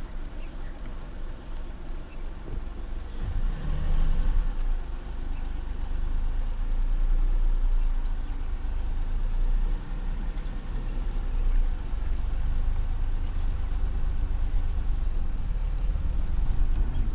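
Motor vehicle engine running with a steady low rumble, growing louder about three seconds in.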